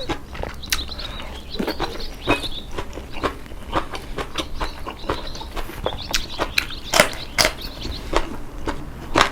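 Red snow crab shells and legs being cracked and broken apart while eating: irregular sharp cracks and snaps, several a second.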